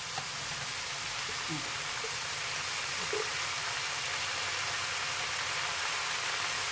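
Vegetables frying in a kadai: water spinach stems, eggplant and potato giving a steady sizzling hiss that grows a little louder.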